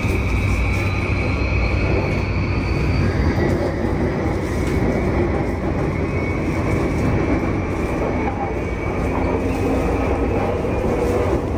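Running noise inside a JR East E235-0 series Yamanote Line car with a Mitsubishi full-SiC VVVF inverter: a steady rumble of wheels on rail under a high steady whine, with a fainter tone rising in pitch over the first few seconds.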